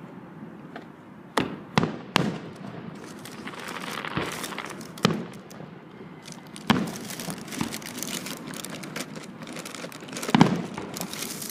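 Fireworks going off: about six sharp bangs with crackling in between. The loudest bang comes near the end and is followed by a burst of crackle.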